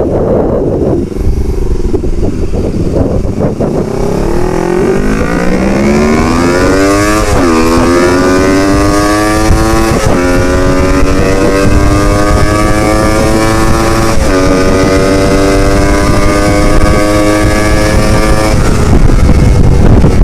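Yamaha R25 parallel-twin engine through a Proliner short full-system aftermarket exhaust, accelerating under way. The revs climb, drop sharply at an upshift about seven seconds in, then climb again through two brief breaks at further shifts. Near the end the engine note gives way to a rush of wind noise.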